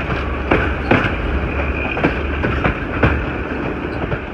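Passenger train carriages running at speed: a steady low rumble with irregular clacks of the wheels over rail joints, and a high wheel squeal as the train rounds a curve.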